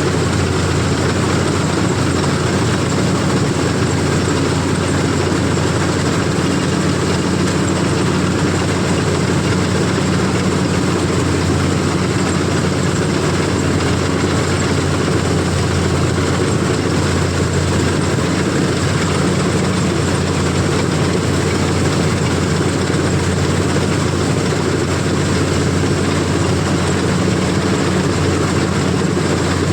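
CLAAS combine harvester running steadily while cutting paddy: a constant low engine drone with the even clatter and rush of the harvesting machinery.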